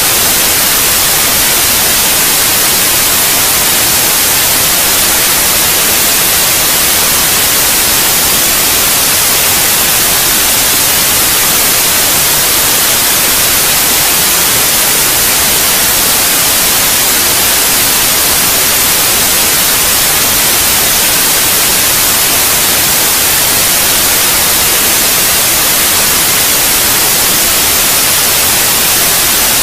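Steady white noise: an even, unchanging hiss, strongest in the high frequencies, with no pitch, rhythm or separate events.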